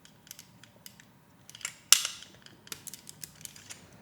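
Lego Technic plastic parts being handled and pressed together: a row of small clicks and knocks, with one loud snap about two seconds in as a piece clicks into place.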